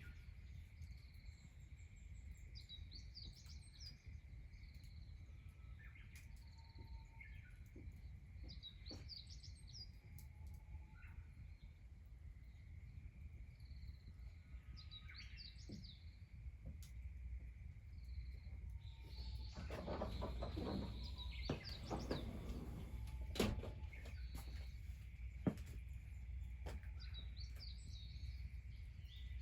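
Songbirds chirping in short phrases every few seconds over a steady high-pitched drone. Around two-thirds of the way through there is a brief stretch of rustling and clattering with a few sharp knocks.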